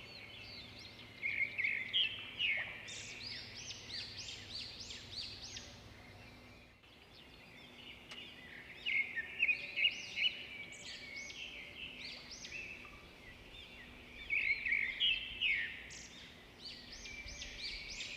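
Several small songbirds singing and chirping together in a forest, with quick overlapping notes and trills. Bursts of louder song come about one and a half seconds in, around nine to ten seconds, and again around fourteen to fifteen seconds. The song drops away briefly around seven seconds.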